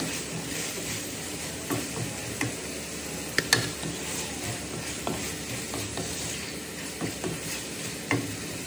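Chicken and green beans sizzling in a nonstick frying pan as they are stir-fried with a wooden spatula, which scrapes and knocks against the pan now and then; the loudest knocks come about three and a half seconds in.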